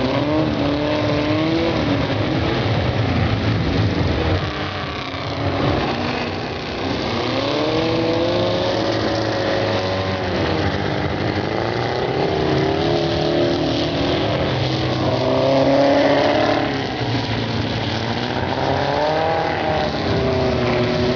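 Several Volkswagen Beetle race cars' air-cooled flat-four engines running hard on a dirt track, overlapping and rising and falling in pitch as they rev through the gears. One passage about two-thirds of the way through is louder.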